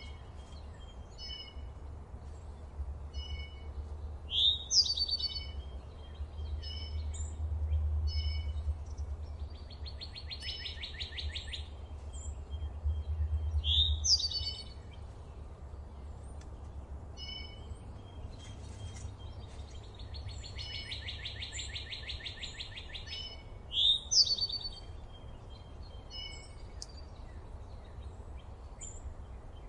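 Forest birdsong: several birds chirping in short repeated notes, with a loud slurred whistle three times and a fast, buzzy trill twice, each trill lasting about two to three seconds.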